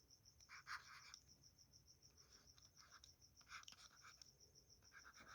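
Faint scratching of writing strokes, in several short runs as equations are written out. A steady, faint, high-pitched pulsing, about five pulses a second, runs underneath.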